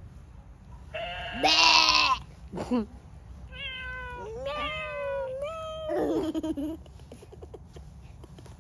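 A child imitating a cat, meowing in several drawn-out calls of rising and falling pitch, the loudest about a second in.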